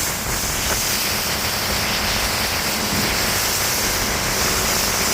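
Steady rushing of wind and spray past a motor boat under way, with the low steady hum of its engines beneath.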